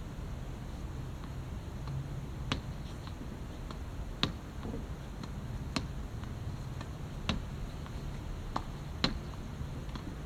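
Badminton racket striking a shuttlecock, a sharp hit roughly every one and a half seconds over a low steady background hum.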